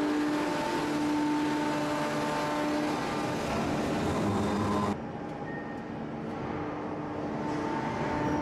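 Heavy hydraulic forging press machinery running: a steady mechanical hum with constant whining tones, dropping suddenly to a lower level about five seconds in.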